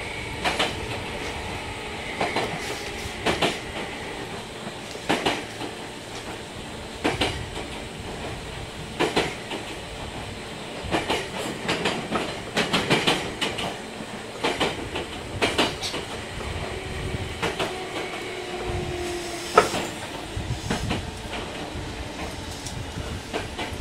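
Running sound from inside a Meitetsu 5000 series electric train: wheels click over rail joints about every two seconds, with quicker clusters of clicks around the middle, over a steady rumble. A faint tone falls slightly near the end, followed by a single sharp click.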